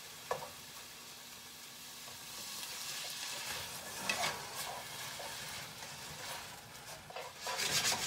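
Sliced beef and onion sizzling in a hot frying pan, stirred and tossed with tongs, with a few short scrapes against the pan; the sizzle grows about halfway through and the stirring is loudest near the end.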